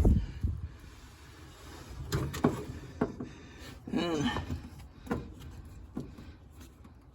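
A few light knocks and clicks of batteries and battery cables being handled and fitted, with a short, wavering pitched sound about four seconds in.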